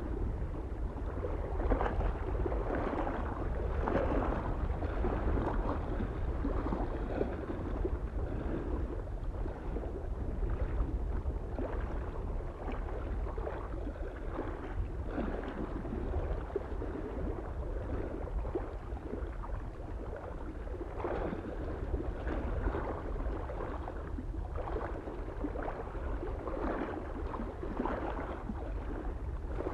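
Small waves lapping irregularly against a lake shore, one splash every second or two, over a soft steady wind noise.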